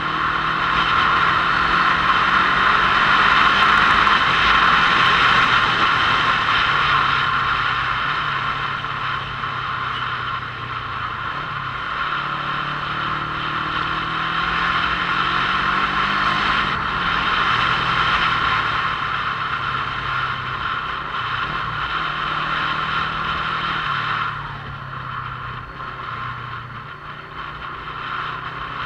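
Motorcycle engine running while riding, its pitch rising and falling with changes in speed. The sound drops noticeably about 24 seconds in, as the bike eases off.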